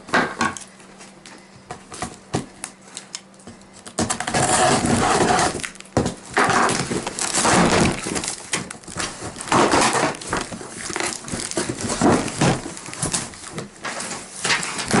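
Cardboard and plastic packaging of a boxed stool rustling and crinkling as it is handled. A few sharp clicks first, then from about four seconds in, loud, dense crackling in repeated bursts.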